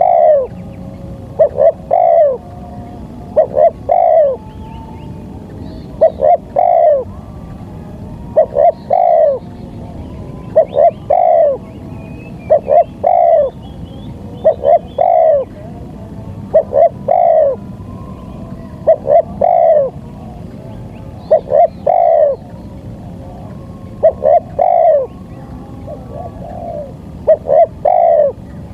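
Spotted dove (tekukur) cooing in a steady repeated song: about every two seconds, two short coos followed by a longer coo that falls in pitch. A steady low hiss runs underneath.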